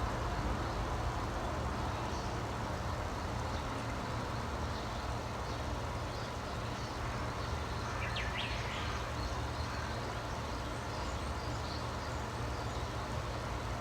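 Birds chirping faintly and now and then over a steady low rumble, with a brief, clearer call about eight seconds in.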